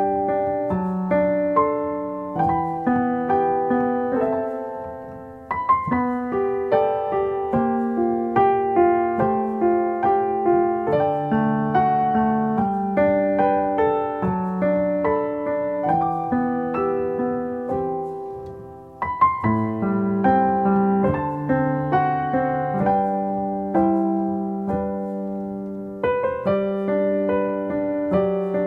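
Background music: solo piano playing a gentle melody of evenly paced notes, about two a second, with two short pauses between phrases.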